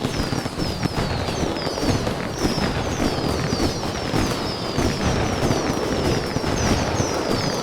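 Fireworks going off continuously: dense crackling over a low rumble. A short, high, falling chirp repeats throughout.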